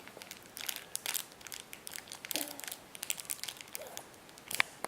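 Snack packaging crinkling and crackling in short, irregular bursts as a baby handles it, with a sharper crackle near the end.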